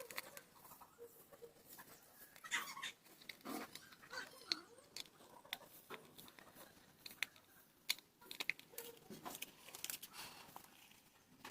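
Small clicks and knocks of plastic headphone parts being handled while the ear-cup covers are fitted, with a few brief, faint pitched sounds in between.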